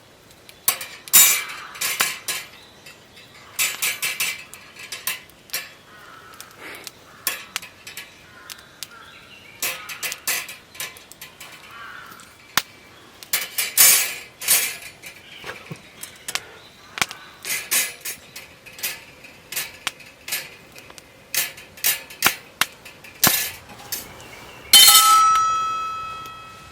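Metal camp cookware and utensils clinking and clattering in a series of irregular sharp knocks. Near the end one metal piece is struck and rings with a clear tone that fades over about two seconds.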